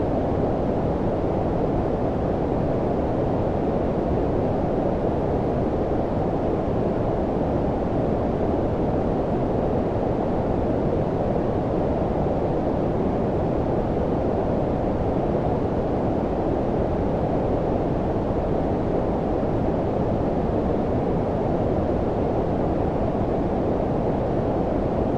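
Synthetic low-pass-filtered noise of the brown-noise kind: a steady, even rush with its energy below about 1 kHz, dull and deep with little hiss, unchanging throughout.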